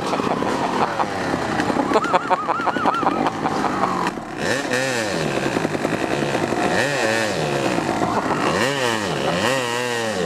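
Off-road dirt bike engine being revved up and down under riding load. Its pitch swings repeatedly, with several rising-and-falling swells in the second half as the throttle is opened and closed.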